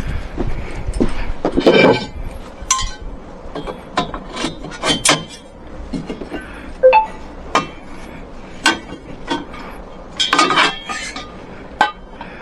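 Hard objects clinking and knocking together at irregular moments, with a louder clink that rings briefly about two seconds in and again about ten seconds in.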